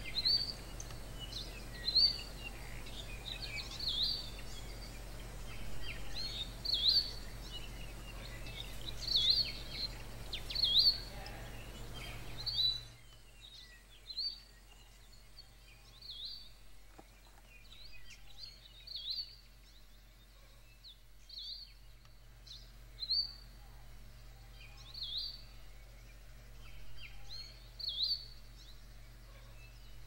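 Forest ambience with a bird giving short, repeated chirps every second or two. The steady background hiss drops away about thirteen seconds in, leaving the chirps more exposed.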